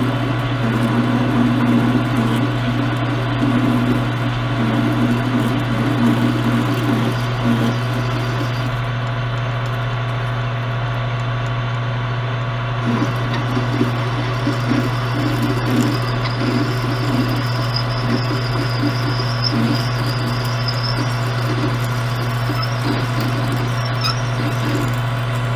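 Metal lathe running with a steady motor hum and gear whine while a twist drill feeds into an aluminium bar. The rough cutting noise drops out for a few seconds near the middle and then comes back.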